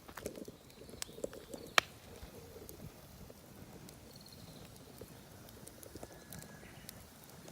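Wood fire crackling in a mesh fire stand, with scattered small pops and one sharp, loud pop a little under two seconds in; the firewood is not dry and is burning poorly.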